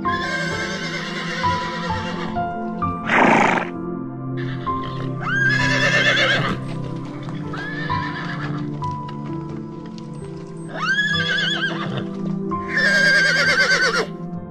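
Horse whinnying over and over, about six calls with a high wavering pitch, one of them a short harsh blast about three seconds in, over steady background music.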